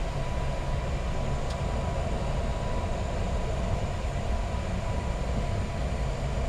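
Boeing 737 MAX 8 on its takeoff roll with takeoff thrust set, heard inside the cockpit: a steady, deep rumble of the engines and the runway, with a thin steady tone above it.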